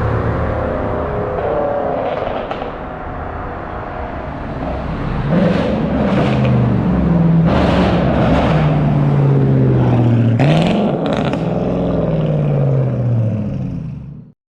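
BMW 545i's 4.4-litre V8 through an H-pipe exhaust, heard from outside the car: running at a low steady pitch for about five seconds, then revved up and let fall several times in quick succession. The sound cuts off abruptly near the end.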